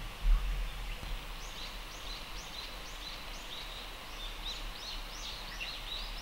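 A small bird calling in a rapid series of short, high, arched notes, about four a second, starting a second or so in, over a faint outdoor hiss. A brief low thump of wind or handling on the microphone comes just after the start.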